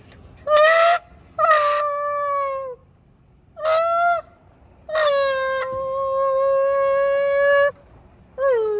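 Car engine noises imitated by a voice blown through a bottle, giving honking tones. A short rough burst is followed by a slightly falling note, a short note, then a long steady note of nearly three seconds, with another note starting at the end.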